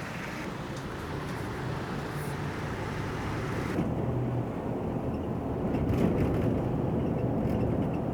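Steady motor-vehicle engine and road noise, a low rumble throughout. The higher hiss drops away abruptly about four seconds in.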